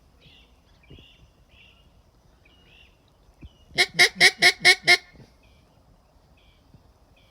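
Handmade mallard duck call blown in a quick run of about six loud hen-style quacks, about four seconds in. Small birds chirp faintly throughout.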